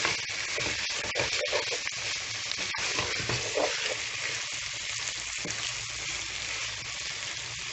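Hilsa roe and chopped potato curry frying in a pan, a steady sizzle with a spatula stirring and scraping through it now and then.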